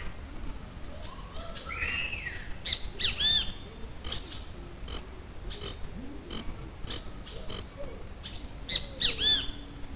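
Small wild birds calling: a run of six sharp, high chirps evenly spaced at about one and a half a second, with an arched whistled call shortly before and another near the end.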